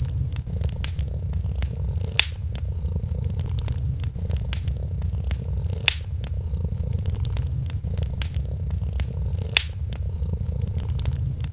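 A cat purring steadily in a low rumble, with a wood fire crackling over it: small scattered snaps and three loud pops a few seconds apart.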